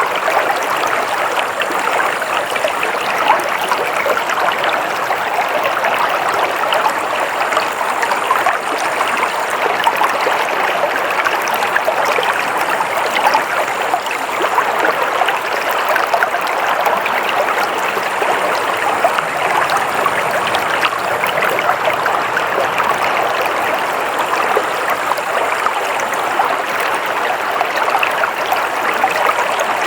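Water flowing steadily in a stream, a continuous even rush of running water.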